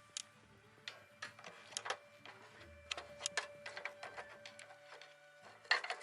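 Irregular run of sharp clicks and knocks, with a denser cluster near the end, over faint background music.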